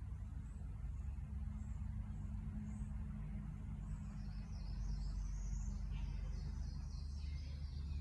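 Birds chirping in short bursts of calls over a steady low hum.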